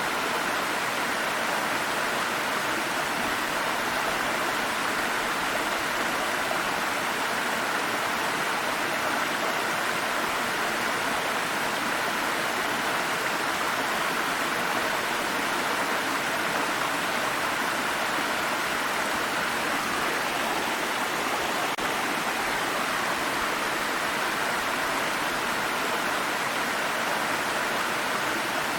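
Water stream rushing steadily over rocks, an even, unbroken rush.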